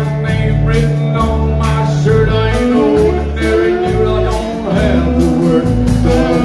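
Live band playing a song: a steady bass and drum beat under bending melody lines.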